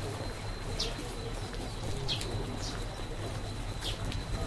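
Small birds chirping: short, falling chirps about once a second, over a low steady hum.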